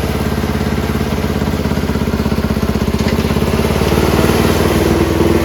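A small engine on a Penncraft lawn tractor runs at a steady, even beat. It gets louder through the second half, and near the end a stronger drone comes in.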